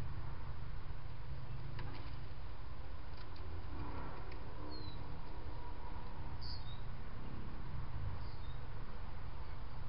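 Bird chirping: three short, high chirps that fall in pitch, spaced about every second and a half, over a steady low background rumble.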